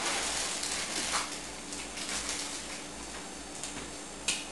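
Kitchen background with a steady faint hum, a few light knocks and taps, and one sharp clack near the end.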